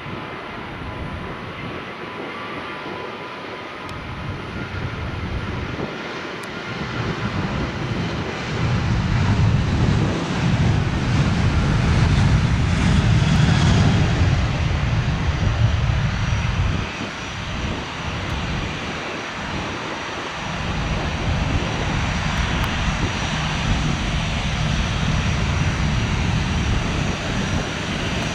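Jet airliner's engines heard as it passes, the rushing noise swelling to its loudest about halfway through, then easing to a steady lower rumble.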